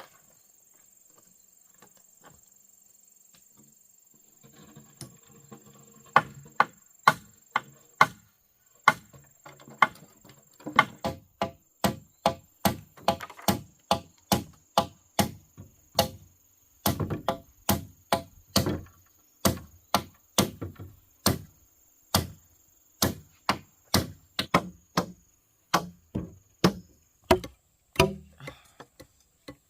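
Hammer blows on wooden barn timbers, pinning the frame together: a steady run of sharp strikes, about two a second, starting about six seconds in after a few lighter knocks.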